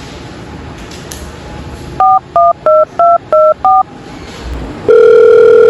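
Telephone keypad dialling: six quick two-tone touch-tone beeps, then about a second later the steady ringback tone begins as the call rings through.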